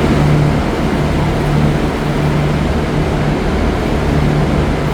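V/Line regional diesel train engines idling, a steady loud hum with a low drone.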